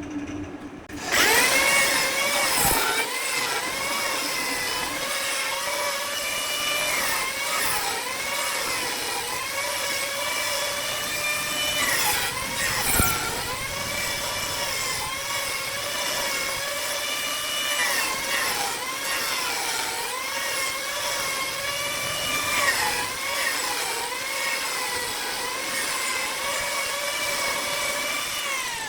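Electric power tool working wood, its motor whine starting about a second in and dipping in pitch again and again as it bogs under load, then picking back up.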